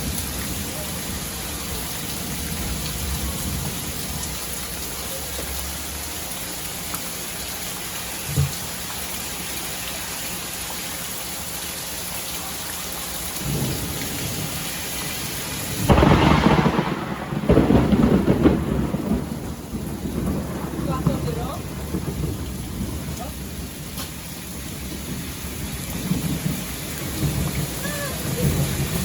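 Steady rain falling, with a loud crack of thunder about halfway through that rumbles on for several seconds before fading back under the rain.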